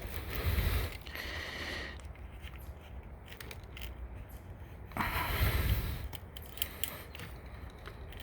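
Spline roller pushing rubber spline and heavy-duty pet screen mesh into a screen door frame's channel, with scraping and rubbing noises and a few clicks; two longer bursts of scraping, one near the start and one about five seconds in. The thick pet mesh makes the spline hard to seat.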